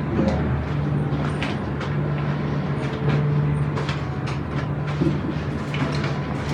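Steady low mechanical hum at one constant pitch, with a few faint clicks.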